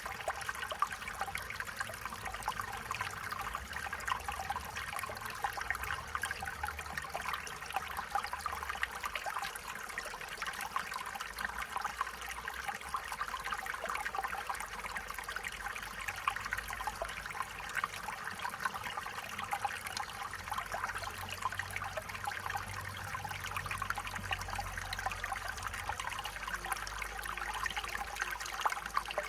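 Stream water flowing and trickling steadily, with a dense patter of small splashes.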